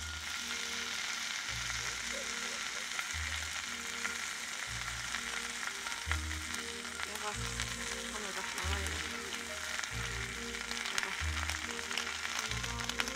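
An egg frying in a hot cast-iron skillet: a steady sizzle that starts suddenly as the egg hits the oiled pan. Background music with a steady bass beat plays underneath.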